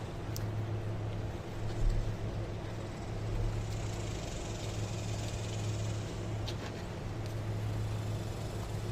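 Steady low engine drone, with a short thump about two seconds in and a few faint clicks.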